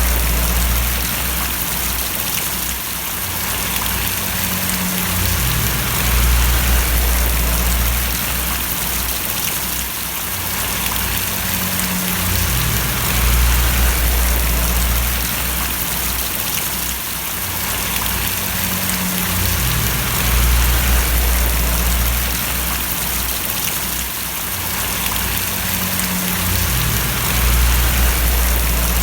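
Steady rain: a dense, even hiss of splashing raindrops, with a low rumble underneath that swells and fades about every seven seconds.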